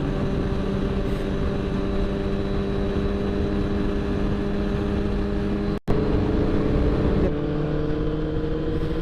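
Motorcycle engine running at a steady cruise with wind rush over it. The sound cuts out completely for a split second a little before 6 s in, and the engine note shifts slightly about a second later.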